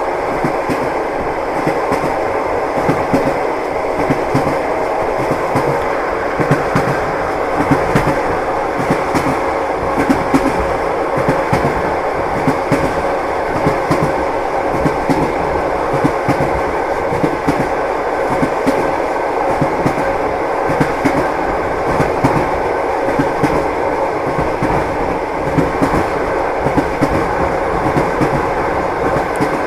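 Train wheels clattering over rail joints as the train runs at steady speed: a constant rumble with a repeating clickety-clack of knocks.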